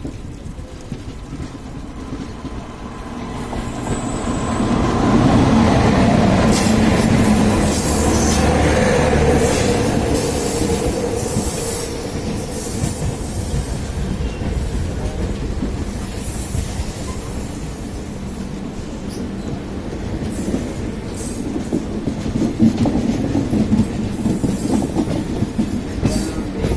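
Express train running on the rails with a steady rumble and repeated clicks of the wheels over the track, growing louder about four seconds in.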